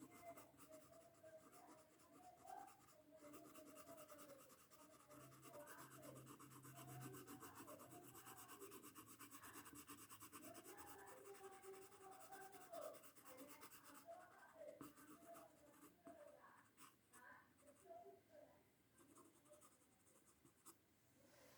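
Faint scratching of a colouring tool stroking across paper as colour is filled into a drawing.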